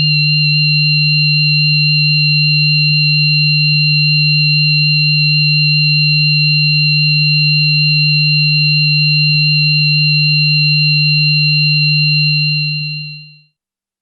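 Synthesized sound-effect drone of steady pure tones, a loud low hum with two thin high whistling tones above it, held unchanging and then fading out about a second before the end.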